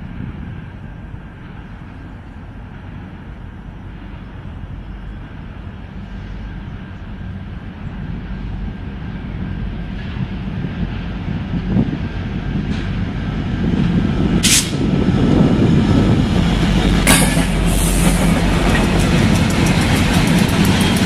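Diesel freight locomotives approaching, their engines running with a low rumble that grows steadily louder. In the second half, sharp clicks and the clickety-clack of wheels over the rail joints come in as the train draws near.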